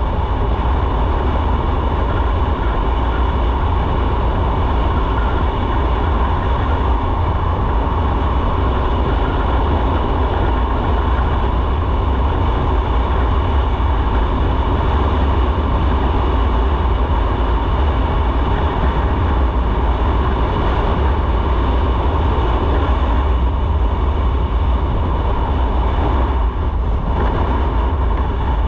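Motorcycle underway at steady speed: engine and road rumble mixed with wind rushing over the microphone, a heavy, constant low drone.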